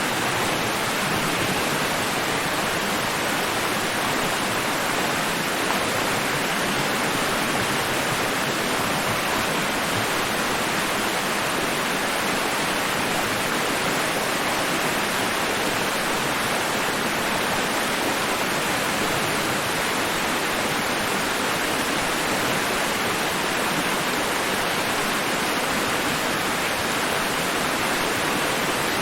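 Steady white noise sold as ocean waves: an even, unbroken rushing hiss with no rise and fall of breaking waves.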